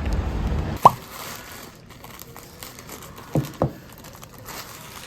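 Three short plops: one about a second in, then two close together a little past three seconds. A low rumble stops just before the first plop.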